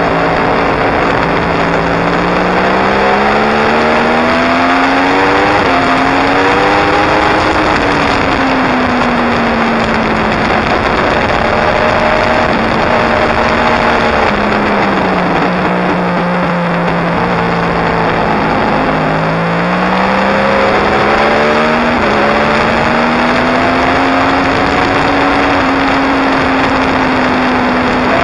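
2016 Yamaha R1's crossplane inline-four engine at speed on a track. Its pitch climbs in steps through the gears over the first several seconds, falls away to a low stretch around the middle, then climbs again and holds fairly steady, all under a loud rush of wind.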